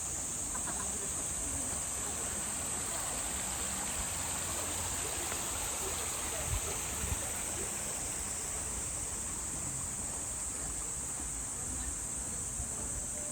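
Steady, high-pitched drone of a summer insect chorus, over an even rush of flowing water. Two soft knocks come about halfway through.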